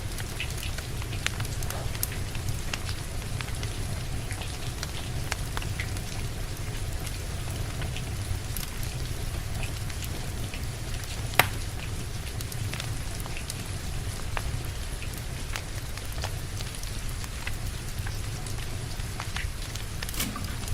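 Steady rain with a low rumble beneath it, and a wood fire crackling over it in scattered small pops. One sharp, louder pop comes about halfway through.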